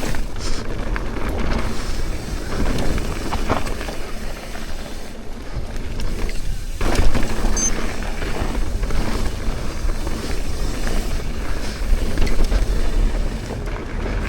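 Mountain bike riding fast down a dirt jump trail: wind buffeting the camera's microphone over the rattle and rumble of tyres and frame on the trail. A brief lull about halfway through, then a loud jolt.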